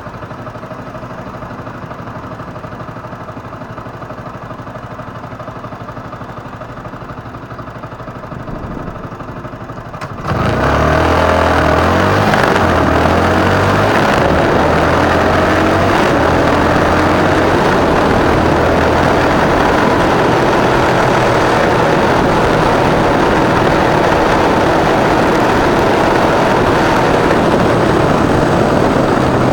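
Motorcycle engine running steadily at low revs, then about ten seconds in it pulls away hard and revs up through several gear changes. After that it runs on at speed under a loud rush of wind noise.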